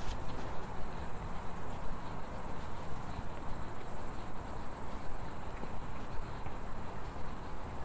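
Insects trilling, a fast, high, steady buzz, over a low steady outdoor rumble.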